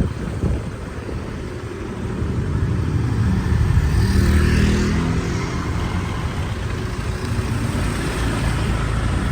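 Motorbike running on the road, with engine and wind rumble while riding. It grows louder for a couple of seconds about three to five seconds in.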